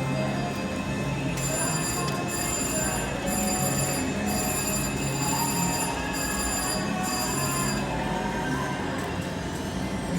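Slot machine electronic ringing and chimes over casino floor din, with a high bell-like ringing that pulses on and off for several seconds, starting about a second in.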